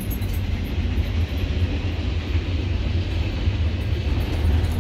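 A freight train rolling past a level crossing, heard from inside the cab of a waiting motorhome: a steady low rumble with an even rushing noise, no single strokes standing out.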